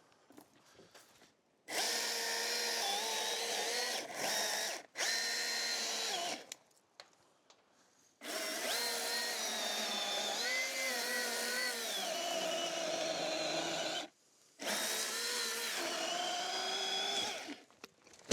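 Chainsaw cutting limbs off a fallen tree in three long bursts, its pitch dipping and recovering as the chain bites into the wood, with near-silent pauses between the cuts.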